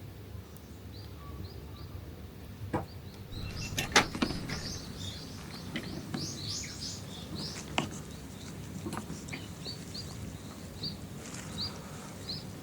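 Small birds chirping and twittering repeatedly, with a few sharp cracks or knocks in between, the loudest about four seconds in, over a low steady outdoor hiss.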